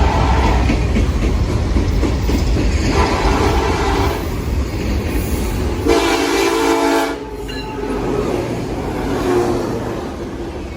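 Norfolk Southern freight train passing with a heavy low rumble of locomotives and wheels on rail, and a locomotive horn sounding one short blast of about a second, about six seconds in. The rumble then drops and fades.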